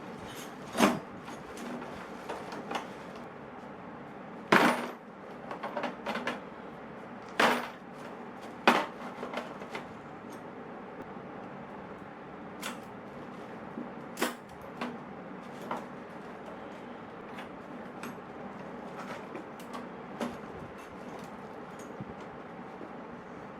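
Hand tools being set into an aluminium toolbox: scattered clinks and knocks of metal on metal, the loudest about a second in and a few more between about four and nine seconds, with lighter taps later, over a steady faint hiss.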